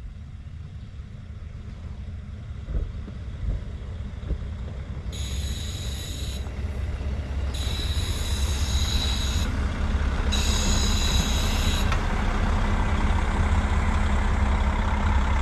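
KiHa 40 diesel railcar pulling in, its engine rumble growing louder as it nears. From about five seconds in, the brakes squeal in three separate high-pitched bursts as it slows to a stop.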